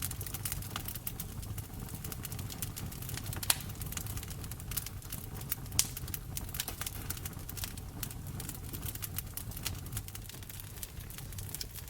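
Wood fire crackling in a fireplace: a dense, irregular run of small snaps over a steady low rumble, with two louder pops, one about a third of the way in and one about halfway.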